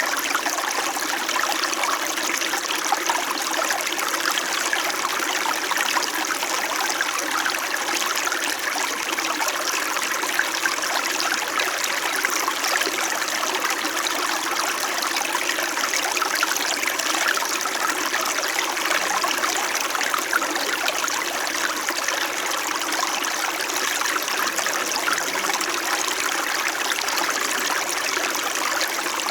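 Small mountain stream in winter, water trickling and babbling steadily over stones.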